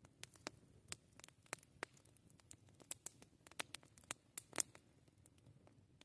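Wood campfire crackling faintly: irregular sharp pops and snaps, a few a second, the loudest about four and a half seconds in, over a low, soft rumble.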